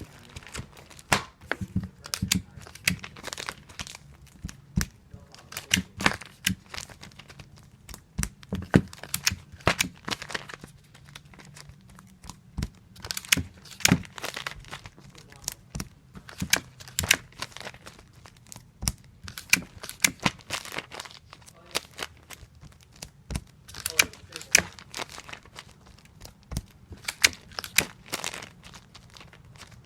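Tape dispenser in repeated use while taping comic books: tape pulled off the roll and torn against the cutter. It gives an irregular run of sharp snaps and rips, several a second.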